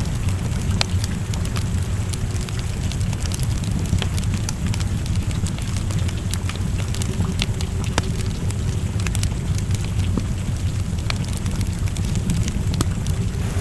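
Wood fire crackling in a fireplace, with scattered sharp pops over a steady low rumble, and rain falling in the background.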